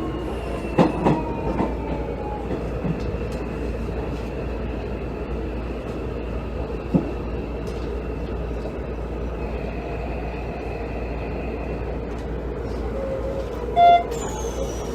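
Hanshin 5700 series 'Jet Car' electric train heard from inside the car: running noise with faint gliding motor-inverter tones, and a few sharp wheel clicks over rail joints. About 14 seconds in comes a short electronic chime, followed by a falling high tone.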